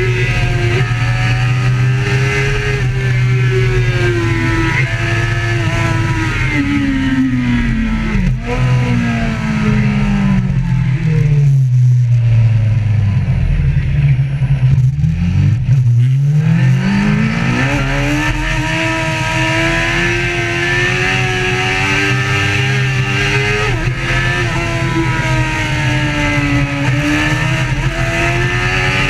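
A vehicle engine running hard, its pitch wavering, then falling steadily for several seconds about halfway through as it slows, before climbing back as it revs up again.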